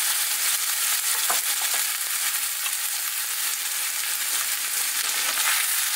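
Hot oil sizzling steadily in a steel kadhai on high flame as sliced carrots, bell peppers and shredded cabbage are tipped in over frying onions.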